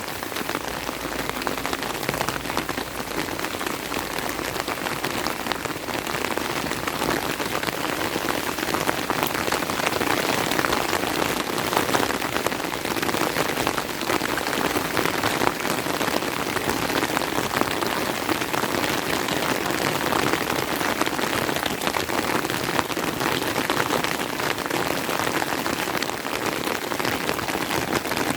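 Steady rain, a dense hiss full of close drop ticks, growing a little louder about eight seconds in.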